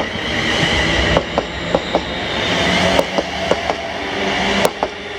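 A passenger train running through the station. Its wheels clack sharply over the rail joints, often in quick pairs, over a steady rumble.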